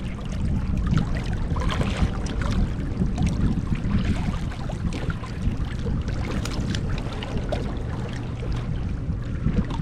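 Low wind rumble and water moving against a fishing boat's hull, with many small clicks and knocks scattered throughout.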